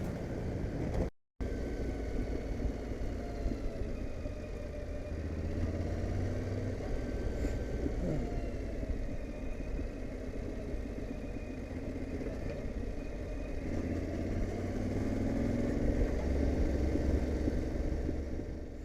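Yamaha Ténéré 700's parallel-twin engine running while riding, heard from the bike. About fourteen seconds in the engine note rises and grows louder under throttle. There is a brief dropout about a second in.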